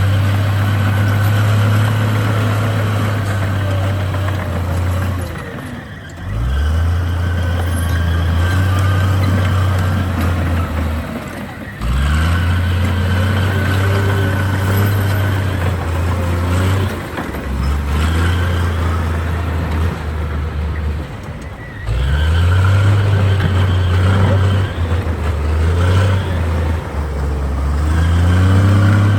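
Heavy diesel engine of a Komatsu D58 bulldozer working under load in repeated cycles: about every six seconds the revs climb quickly, hold a steady low drone for several seconds, then fall back.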